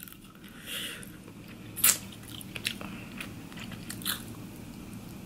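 A person chewing shellfish meat, with soft wet mouth clicks and smacks. The sharpest smack comes about two seconds in.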